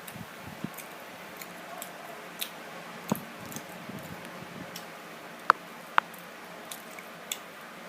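Wet mouth sounds of someone eating mango: soft squishing and chewing with scattered sharp lip-smack clicks, the loudest two close together about five and a half seconds in.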